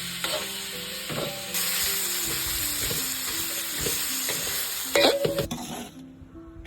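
Food sizzling as it fries in a pan, with a spatula scraping and knocking against the pan as it is stirred. The sizzle grows louder about a second and a half in and cuts off abruptly near the end.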